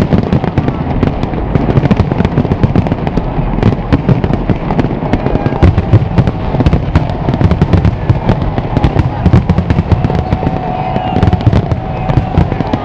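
A large aerial fireworks display in full barrage: many shells bursting every second in quick, overlapping sharp bangs and crackles over a continuous deep rumble.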